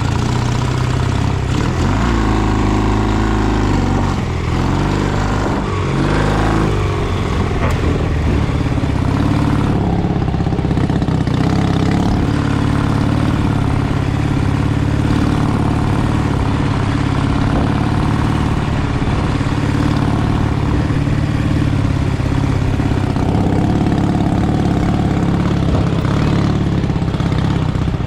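Dnepr MT-11 sidecar motorcycle's flat-twin engine running under way. Its pitch rises and falls over the first several seconds as engine speed changes, then settles into a steady drone.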